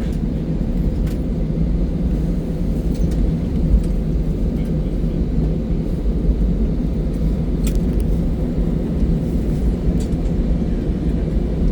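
Steady low rumble inside an airliner's cabin as it taxis after landing, from the idling jet engines and the airframe rolling on the ground. A few faint ticks sound over it.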